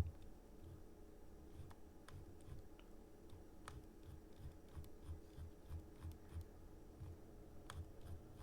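Faint, scattered computer mouse clicks over a low steady room hum, with soft low thuds in between.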